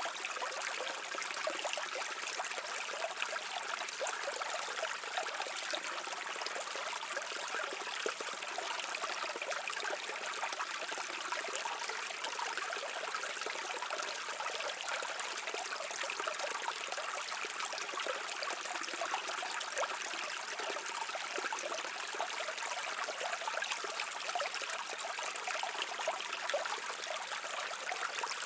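Stream water flowing and trickling steadily over rocks, a continuous babbling wash with lots of fine splashing detail.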